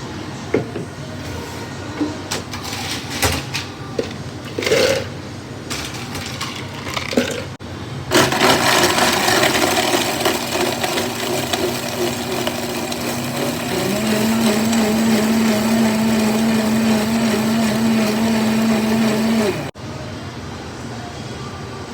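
Handling clicks and knocks, then a countertop drink blender runs for about eleven seconds. Its motor pitch steps up partway through, and it cuts off suddenly.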